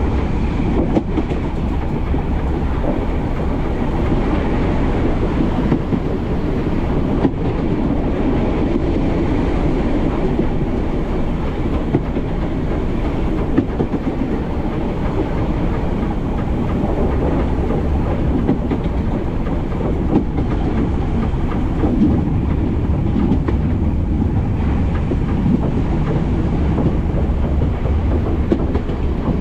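Narrow-gauge train running along metre-gauge track: a steady low rumble of wheels on rail, with occasional sharp clicks at irregular intervals.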